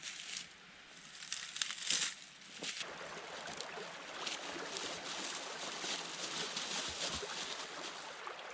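Birch bark rustling as it is handled, then catching fire about three seconds in and burning with a steady dense crackle.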